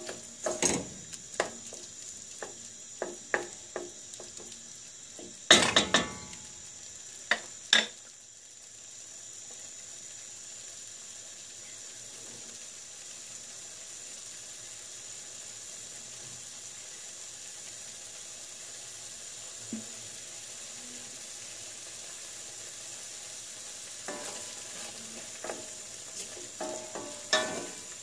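Tomato and pepper paste frying with onions and tomatoes in a stainless steel pot, sizzling steadily. A wooden spoon stirs and scrapes against the pot for the first several seconds, with a few louder knocks, and again near the end.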